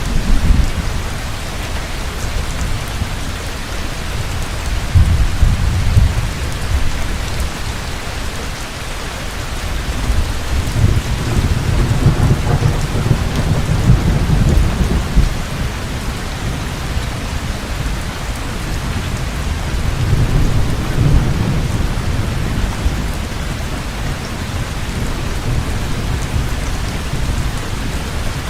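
Heavy rain falling steadily, with low rolling thunder rumbling in several long swells, the strongest about halfway through.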